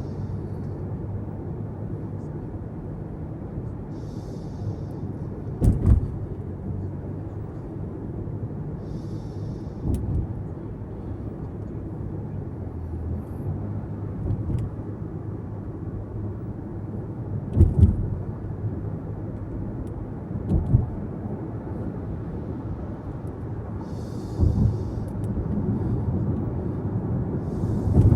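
Car in motion heard from inside the cabin: a steady low road and engine rumble, broken several times by short dull thumps as the tyres go over bumps or road joints.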